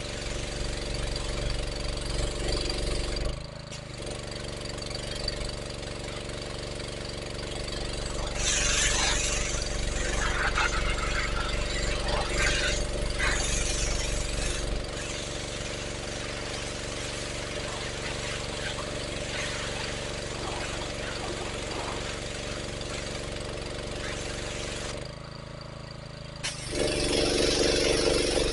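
Honda pressure washer's small petrol engine running steadily, with spells of louder hissing from about 8 to 14 seconds in and again near the end.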